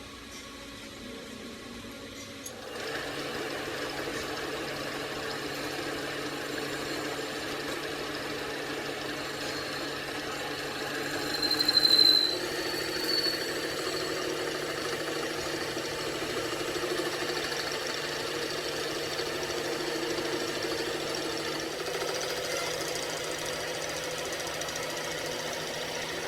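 A machine starts up about three seconds in and runs steadily with a constant hum, with a brief high squeal near the middle.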